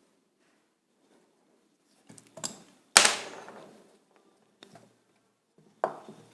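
Knocks and clanks of metal motor parts and tools being handled and set down during disassembly. The loudest is a single clank about three seconds in that rings on for about a second, with a sharp knock near the end.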